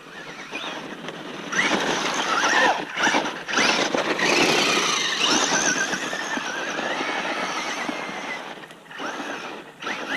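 Traxxas Rustler RC truck's brushless motor and geartrain whining over tyre noise on pavement, the pitch gliding up and down as it speeds up and slows. It comes in about a second and a half in and drops away near the end.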